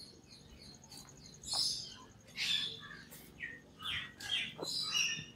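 Birds calling in short, high-pitched chirps and squawks, several times over, with a faint rapid ticking trill in the first half.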